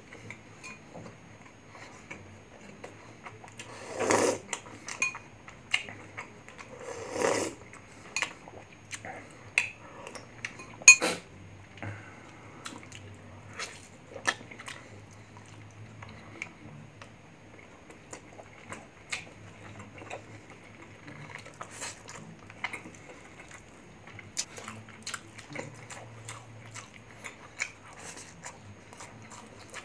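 Close-miked eating sounds: chewing and wet mouth clicks and smacks as grilled chicken and rice are eaten by hand. Two longer, louder noisy sounds come about 4 and 7 seconds in, and a sharp click comes about 11 seconds in.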